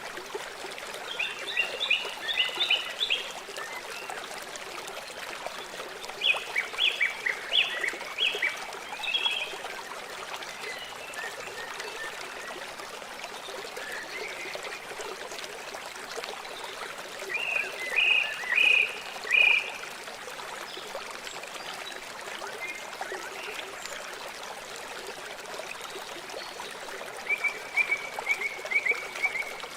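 River water flowing steadily. Over it, four short runs of rapid, high-pitched animal calls, each lasting one to three seconds, are the loudest sounds.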